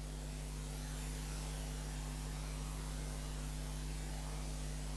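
A steady electrical mains hum under a low, even hiss: room tone in a pause between speech.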